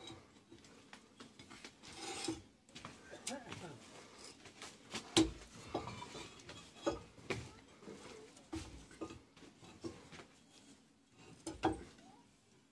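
Irregular knocks, clinks and scrapes of hand work on a roof, a dozen or so separate strikes spread unevenly, with faint voices.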